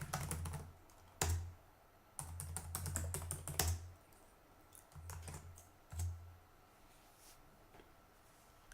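Computer keyboard typing in several short bursts of key clicks, as commands are entered at a terminal.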